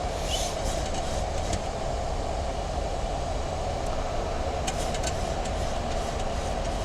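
Steady flight-deck background noise of a Boeing 737 MAX 8 in flight, an even rush with a low rumble, with a few faint clicks about five seconds in.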